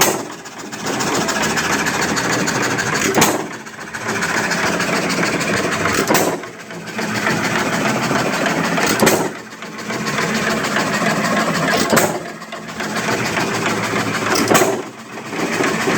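John Deere 3 hp single-cylinder hit-and-miss engine running, with a sharp bang about every three seconds, each followed by a short lull.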